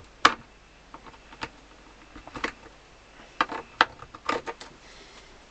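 Irregular sharp clicks and taps of small metal pliers gripping at tiny nails in an accordion's woodwork, with a cluster of quicker clicks past the middle.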